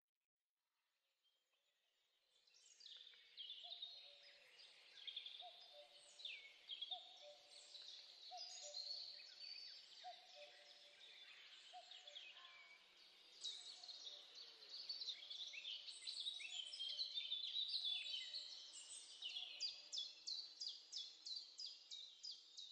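Faint woodland birdsong from several birds: high chirps and whistles overlapping, with a lower short call repeating, and near the end one bird giving a fast run of evenly spaced notes, about four a second.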